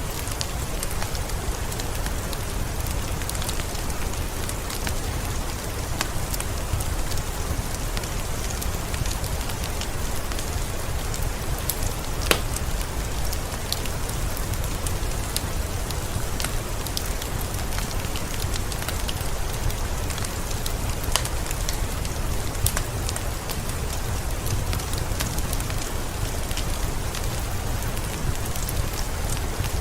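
Steady rain with a low rumble underneath, mixed with the scattered sharp crackles and pops of a wood fire. The loudest pop comes about twelve seconds in.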